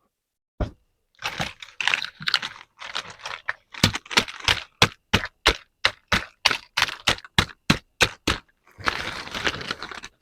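Plastic toy parts and packaging being handled: crinkling, then a quick run of sharp plastic clicks about three a second, then more crinkling near the end.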